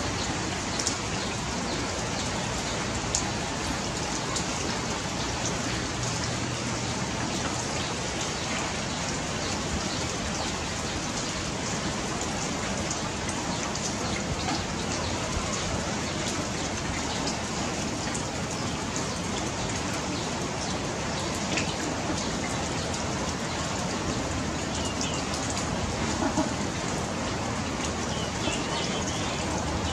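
A steady, even hiss like heavy rain, with scattered faint ticks and a few faint high chirps near the end.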